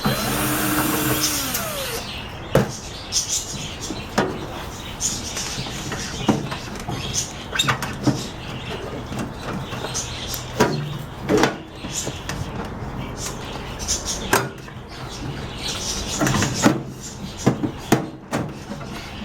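Screws being taken out of a microwave oven's sheet-metal outer cover and the casing being handled: a brief whir in the first couple of seconds, then scattered knocks, clicks and rattles.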